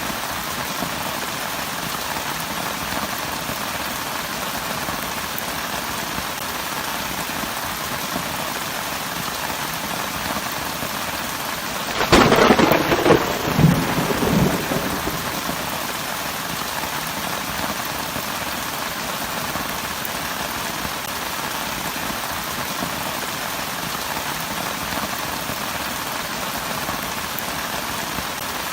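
Steady heavy rain falling, with a single crack of thunder about midway that rumbles away over a couple of seconds.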